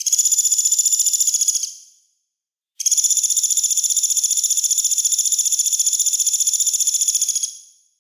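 A songbird's harsh, fast-pulsing buzzy trill, a 'besetan' call used as training song: one burst of nearly two seconds that fades out, a short gap, then a longer burst of about five seconds.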